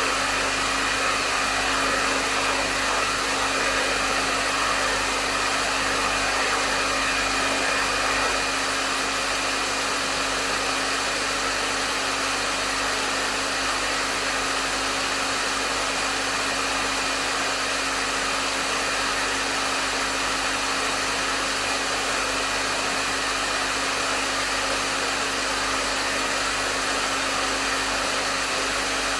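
Hair dryer running steadily, with a rush of airflow over a constant motor hum.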